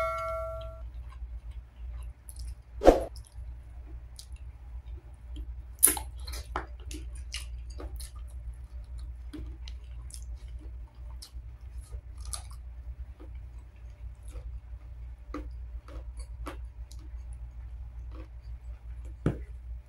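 Close-up eating sounds of a man eating chicken adobo and rice by hand: wet chewing, lip smacks and small clicks, with a few louder knocks about 3 and 6 seconds in and again near the end. A bell-like chime fades out at the very start.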